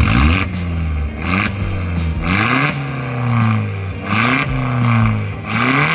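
Vauxhall Corsa VXR's turbocharged 1.6-litre four-cylinder engine revved in repeated short blips, about five times, the pitch rising and falling back to idle each time.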